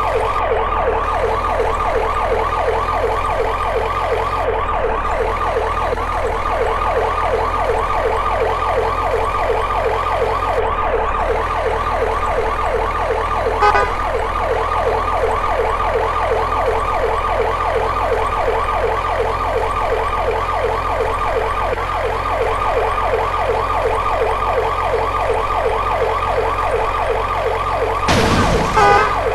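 Police car siren in a fast yelp, its pitch sweeping rapidly up and down without pause over a steady low hum. A brief knock about fourteen seconds in, and a short burst of noise near the end.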